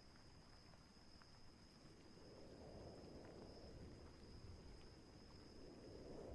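Faint night-storm ambience: a low wind rumble that swells and fades, with a steady thin high tone running through it.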